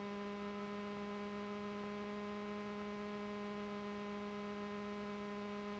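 Steady electrical hum on the aircraft's intercom/radio audio: one unchanging buzzy tone with overtones and no speech.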